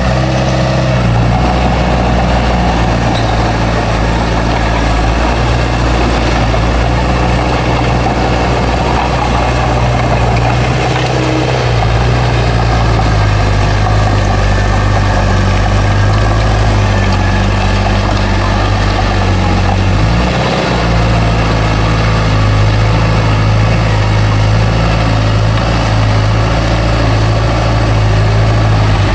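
Bulldozer's diesel engine running steadily. Its pitch shifts about twelve seconds in and dips briefly near twenty seconds.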